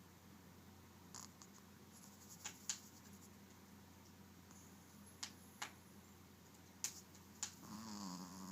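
Near-silent room with a few short faint clicks. Near the end a sleeping dog's snore begins, a low wavering sound.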